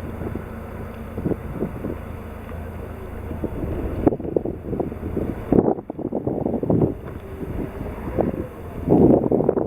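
Gusty wind buffeting the microphone, coming and going in strong swells, over a steady low drone from a boom boat's engine working logs in the bay.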